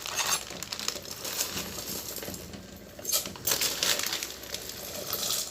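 Plastic packet of dry ring-shaped pasta being handled, its small hard pieces rattling and clicking inside with crinkling of the plastic, in several short clusters.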